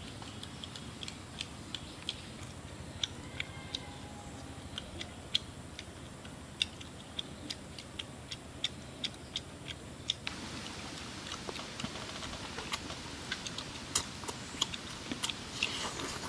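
People chewing and smacking their lips while eating roasted chicken legs: irregular sharp clicks, about one or two a second, over a steady low hiss.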